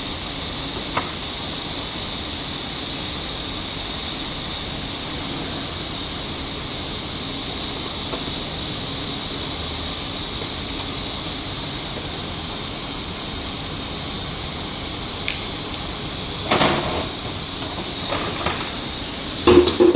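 A steady, fairly loud hiss throughout, with a couple of short knocks near the end.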